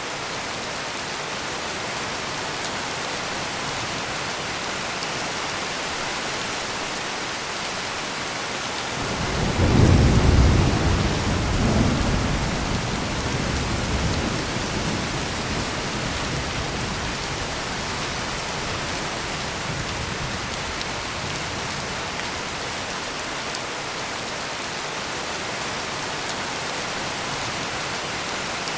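Steady heavy rain, with a clap of thunder about a third of the way in that rumbles on in a few swells for several seconds before fading back under the rain.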